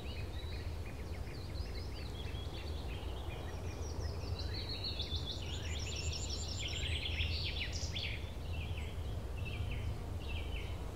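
Wild birds chirping and singing, with a rapid high trill from about four to seven seconds in, over a steady low background rumble.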